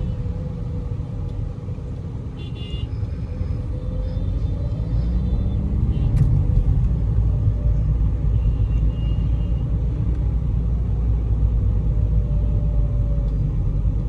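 Low, steady engine and road rumble inside a Volkswagen Vento's closed cabin while driving. It grows louder about five seconds in, with a faint rising engine note.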